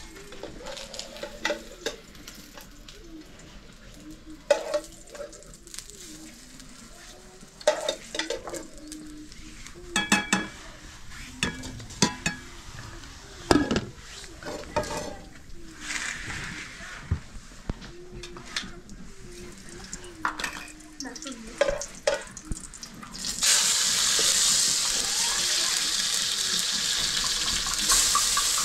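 A knife cutting through tomatoes, with sharp clicks and knocks as slices land on an aluminium tray. About three-quarters of the way through, a loud steady sizzling starts suddenly as tomato slices go into hot oil in a pot over a wood fire.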